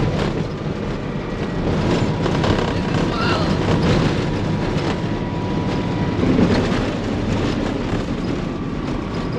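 Unimog truck driving on a rough bush track: the engine runs steadily under a dense noise of rattles and small knocks from the body.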